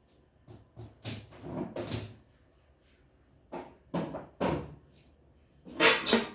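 A series of knocks and scraping clatters in three bunches, the loudest near the end, like something being handled and set down.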